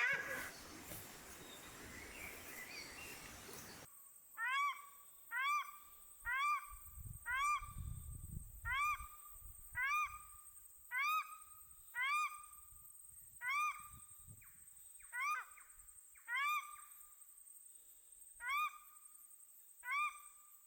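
Female paradise shelduck calling over and over, about one short honking note a second, each rising then falling in pitch. From about four seconds in, a steady high-pitched hum sits behind the calls; before that there is only faint outdoor ambience.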